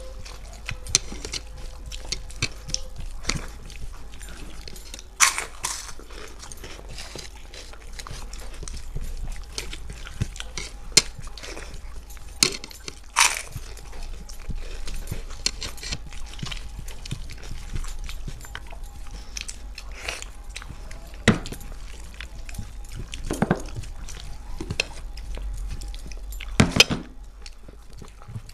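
People eating quickly with their hands: chewing and mouth sounds with irregular sharp clicks, snaps and clinks of plates.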